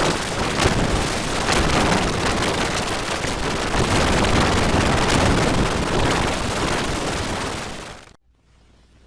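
Sound effect of a heavy gunfire barrage: a dense, continuous crackle of many overlapping shots and blasts. It cuts off abruptly about eight seconds in.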